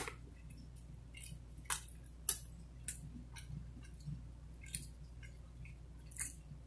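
A person chewing a mouthful of pizza: soft, irregular mouth clicks and smacks, spaced unevenly through the chewing.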